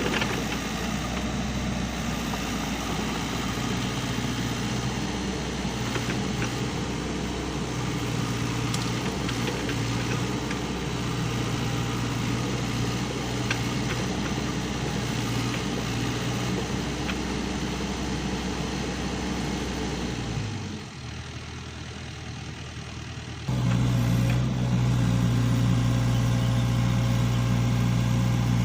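SANY hydraulic excavator's diesel engine running steadily with a low, even hum. About twenty seconds in it drops away for a few seconds, then comes back louder.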